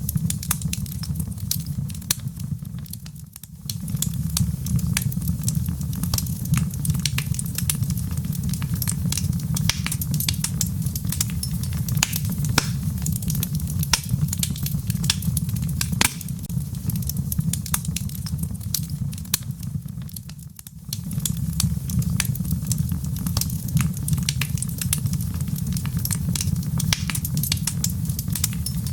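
Wood fire in a fireplace crackling, with frequent sharp pops over a steady low rumble. The rumble briefly fades twice, about three seconds in and about twenty seconds in.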